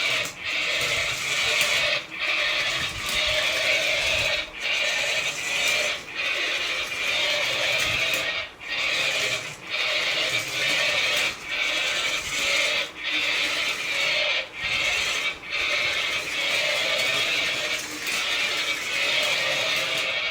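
Small geared toy motor whirring steadily, dipping briefly about every second or so.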